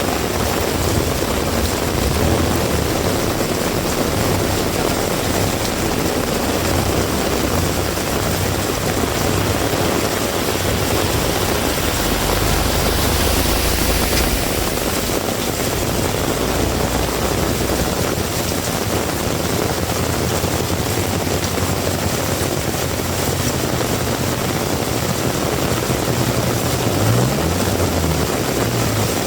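Heavy rain falling steadily, with a motor vehicle's engine running low underneath; the engine grows louder around the middle and rises in pitch near the end.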